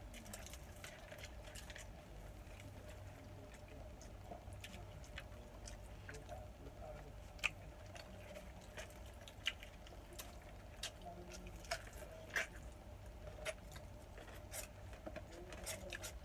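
Faint close-up chewing and eating sounds, soft wet mouth noises with scattered sharp clicks, the loudest a little over seven seconds in and about twelve seconds in, over a low steady hum.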